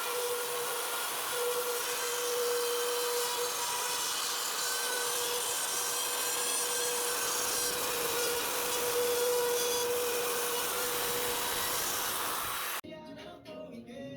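A power tool running steadily with a constant whine and a rasping, sawing noise. It cuts off abruptly about a second and a half before the end.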